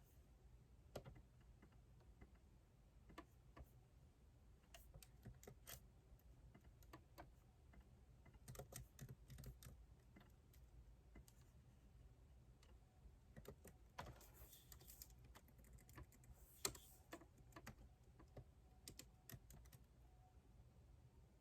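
Faint typing on a computer keyboard: irregular single keystrokes, with a quicker run of keys about nine seconds in and a brief scratchy stretch about fourteen seconds in.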